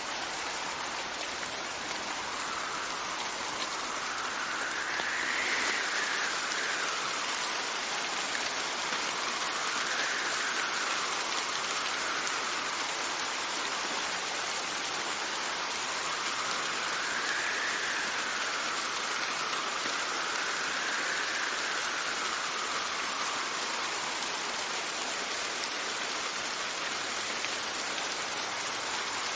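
Steady rain with wind gusting over it: an even hiss of rainfall, and a faint whistling tone of wind that rises and falls in pitch every few seconds, strongest around a third of the way in and again past halfway.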